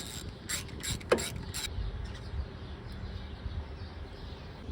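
Several short sharp metallic clicks and creaks as a spark plug is put back into the Briggs & Stratton engine's cylinder head with a hand wrench, bunched in the first second and a half, then only a low background.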